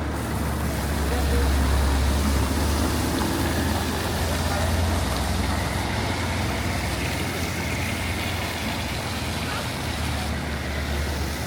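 Traffic on a rain-wet street: a heavy road vehicle's low engine rumble, loudest in the first half, over a steady hiss of rain and wet tyres.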